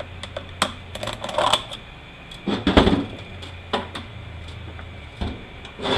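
Irregular metallic clicks and clatter of hand tools against transmission parts during bench disassembly of an automatic transmission drum, with a louder burst of clattering about two and a half seconds in, over a steady low hum.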